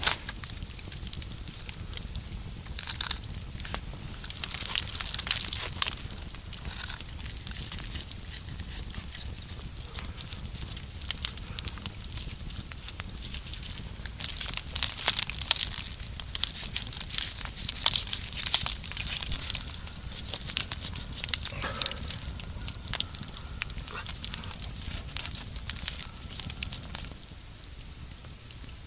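Dry leaves and twigs crackling and rustling in irregular clusters, the kind of sound made by handling forest litter.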